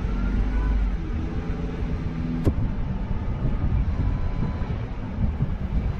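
Ford Transit van's engine running with low road rumble as it turns, with a single sharp click about two and a half seconds in.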